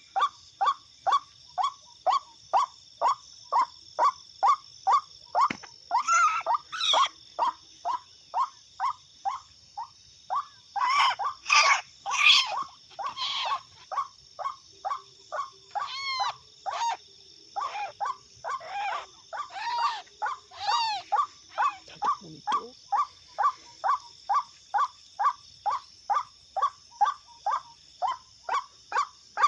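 White-breasted waterhen calls: a short call repeated evenly about twice a second, as from an MP3 lure recording, with louder clusters of overlapping calls several times. A steady high-pitched hum runs underneath.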